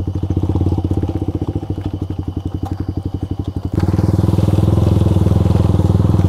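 Yamaha R15's single-cylinder engine running at low revs, each firing stroke distinct, as the bike rolls slowly. About four seconds in it gets louder and fuller as the throttle opens.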